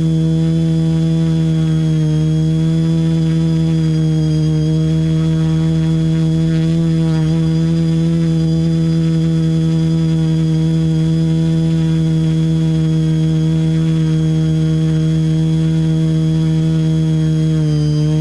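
TBS Discovery quadcopter's brushless motors and propellers humming at a steady pitch in flight, the pitch wavering slightly as the throttle shifts.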